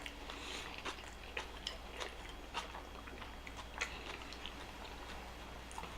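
Close-miked chewing of a bite of Burger King Whopper, with scattered soft mouth clicks.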